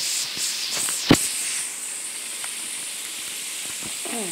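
Pig feet deep-frying in a skillet of hot oil: a steady sizzle, with one loud sharp pop about a second in.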